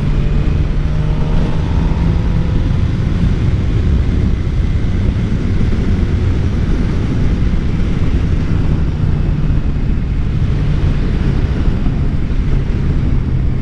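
Motorcycle riding sound on a 2013 Suzuki GSX-R 600: heavy wind rush over the microphone over the steady drone of the inline-four engine holding an even speed.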